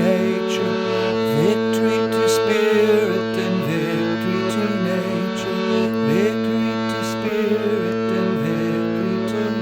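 Harmonium playing the chant's melody over a sustained drone note, the reeds sounding steady chords with the notes above changing.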